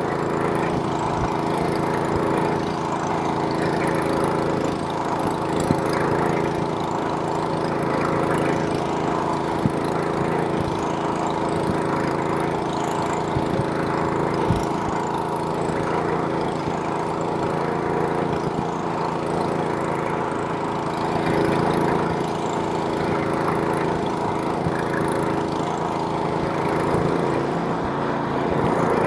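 Small-engine snowblower running steadily while clearing snow, with a few brief knocks.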